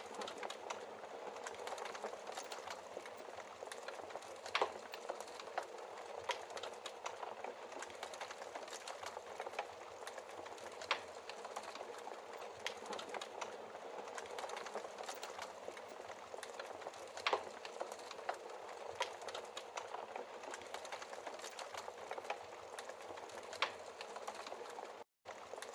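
Wood fire burning in a fireplace, crackling steadily with a hiss and a few sharper pops. The sound drops out for a split second near the end.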